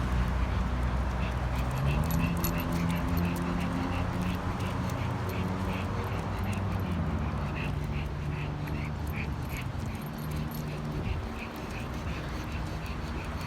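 Short, high animal calls repeated two or three times a second, over a steady low hum that steps up in pitch about two seconds in and fades near the end.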